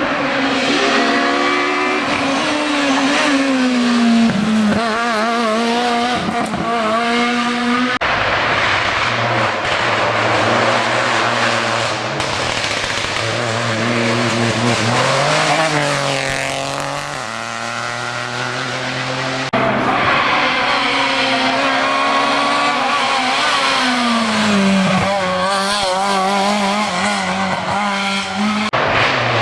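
Rally cars at full stage speed, engines revving hard up and down through gear changes as they pass one after another; the sound switches abruptly to a different car about a third and about two-thirds of the way through.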